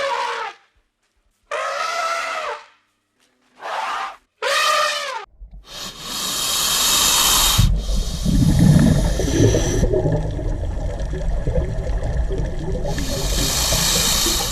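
A cat meowing four times, with short arched calls. Then a loud, steady rushing noise with a deep rumble, like water or wind, runs for about nine seconds and cuts off near the end.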